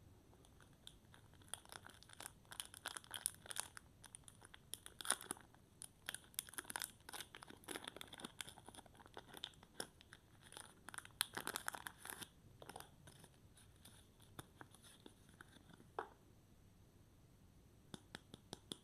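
Soap packaging being opened by hand: a run of crinkling, crackling and tearing of the wrapper, dense for most of the first dozen seconds, then thinning to a few scattered crackles.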